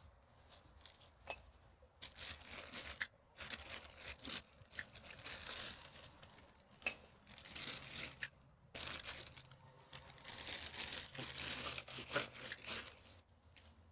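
Plastic litter and a garbage bag rustling and crinkling as rubbish is picked up and bagged. The sound comes in bursts of one to four seconds with short gaps and a few sharp clicks.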